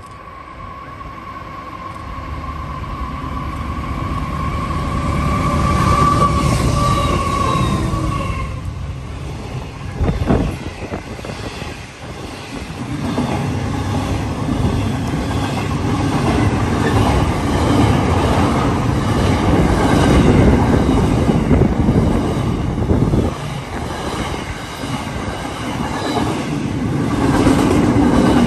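Freight train hauled by two GE-built NR class diesel-electric locomotives approaching and passing at speed. A steady high whine grows louder and dips slightly in pitch as the locomotives go by. About a second later a sharp knock comes, then a steady rumble and clatter of the empty steel wagons' wheels over the rail joints.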